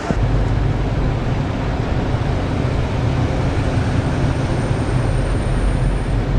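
A motorcycle riding at speed: steady engine and wind rumble, dominated by low-pitched buffeting.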